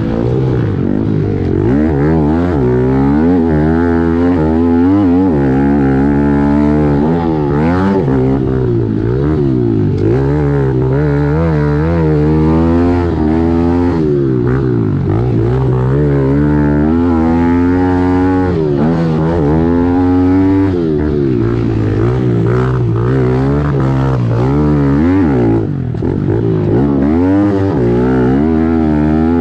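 Kawasaki KLX110L pit bike's single-cylinder four-stroke engine heard close up, revving up and down over and over as the throttle is worked around the track, with a short drop in level about three-quarters of the way through.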